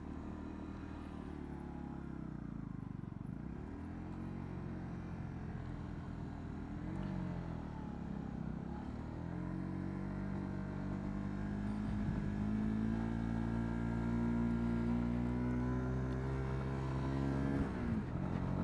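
Honda CB125R's single-cylinder four-stroke engine running under way, its note dipping and climbing back twice as the revs drop and rise, then holding higher and steadier before dipping once more near the end.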